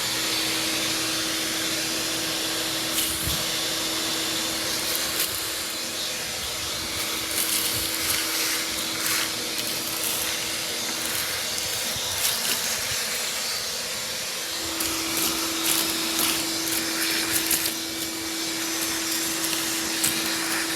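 Vacuum cleaner running steadily as it sucks loose dirt, leaves and old nest material out of an engine's cooling passages, with scattered clicks and rattles of debris going up the nozzle. Its hum drops away for a couple of seconds past the middle, then comes back.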